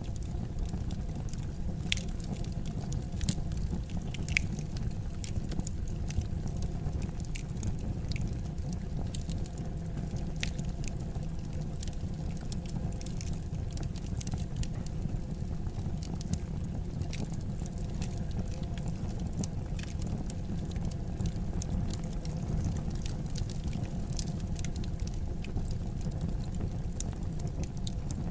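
Fire burning in a fireplace: a steady low noise of the flames with many scattered sharp crackles and pops.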